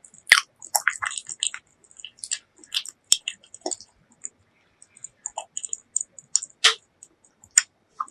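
Close-miked chewing of braised pork leg: irregular wet mouth sounds and short sharp clicks, a few of them standing out louder.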